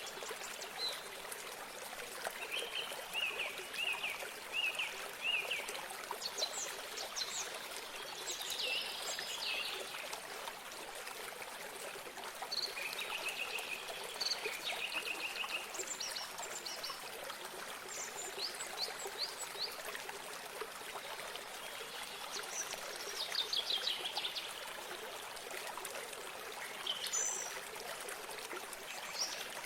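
Running water from a stream or spring, a steady trickling hiss, with songbirds singing over it: phrases of repeated short notes and quick trills come and go, the clearest a rapid trill near the end.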